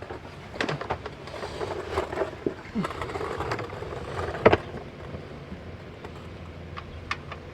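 Scattered knocks and clatter, with one louder, sharper knock about four and a half seconds in, over a low steady hum.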